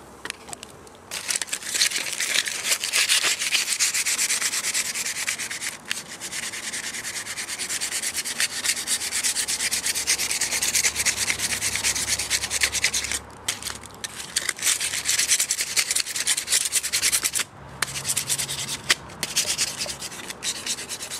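Crumpled aluminum foil being scrubbed hard over a cola-wetted chrome exhaust guard to lift the rust: a continuous harsh scratchy rasping that starts about a second in and stops briefly a few times.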